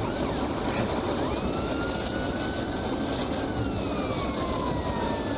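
Police car driving at speed in a pursuit: steady engine, tyre and wind noise, with a siren wailing faintly, its pitch rising slowly and then falling off in the second half.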